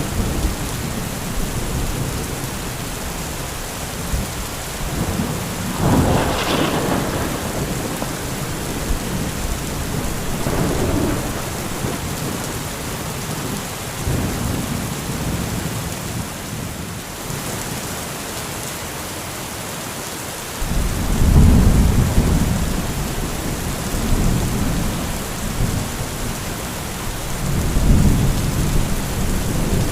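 Steady heavy rain with thunder: a sharp crack about six seconds in, a softer rumble a few seconds later, and deep rolling rumbles that set in suddenly about two-thirds of the way through and come again near the end.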